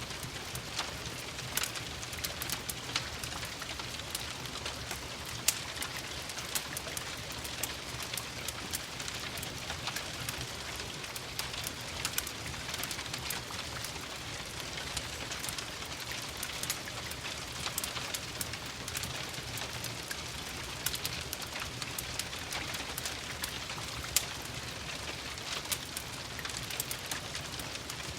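Steady rain hiss mixed with a crackling wood fire, with many small sharp pops and ticks scattered throughout.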